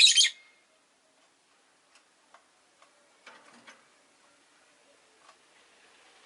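Rosy-faced lovebird giving a short, loud, harsh chirp right at the start, then scattered soft clicks and taps.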